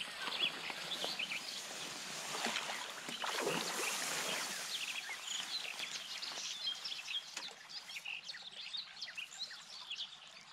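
Small birds chirping and singing over a steady outdoor hiss, with a short louder rush of noise about three and a half seconds in.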